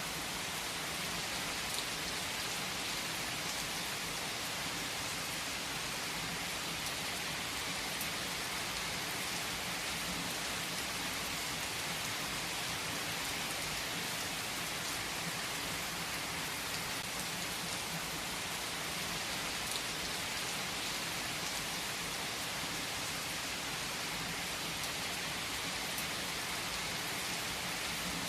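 Steady rain falling, an even hiss with a few faint sharper drop ticks.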